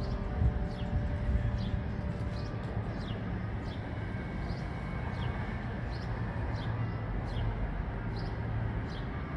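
Birds chirping, short quick downward notes repeated every half second or so, over a steady low rumble.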